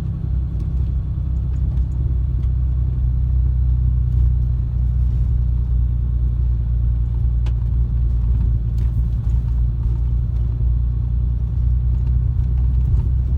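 Ram 2500's 6.7-litre Cummins inline-six turbo-diesel idling steadily with a low rumble, heard from inside the cab.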